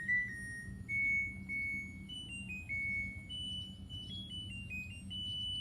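LG Inverter Direct Drive washing machine playing its end-of-cycle tune: a melody of clear electronic beeps stepping up and down in pitch, the signal that the wash cycle has finished.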